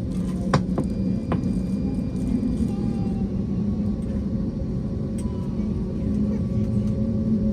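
Steady low drone of an Airbus A321neo's cabin while parked before departure, with a few sharp clicks in the first second and a half.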